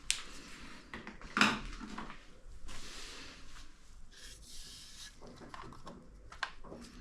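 Handling noises from repair work: scattered clicks and taps, a sharp knock about a second and a half in, and short stretches of rubbing or sliding.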